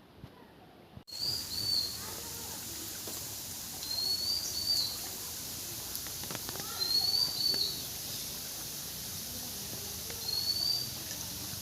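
A bird calling over and over, a short rising whistled phrase about every three seconds, over a steady hiss. The calls begin about a second in.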